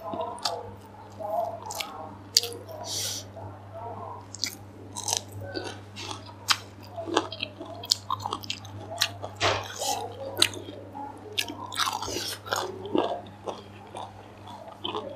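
A person biting and chewing crisp raw cucumber close to the microphone, with many short crunches.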